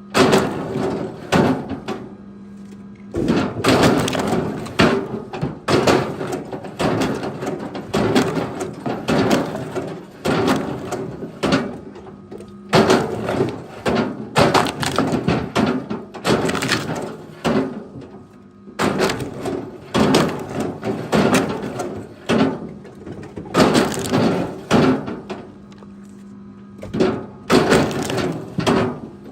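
Pieces of firewood knocking and clattering against each other over and over, in irregular runs every second or two.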